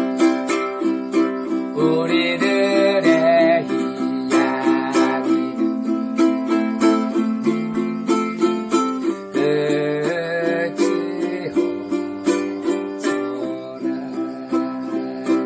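Ukulele playing solo: an even rhythm of plucked chords under a picked melody, with the melody notes coming forward about two seconds in and again near the ten-second mark.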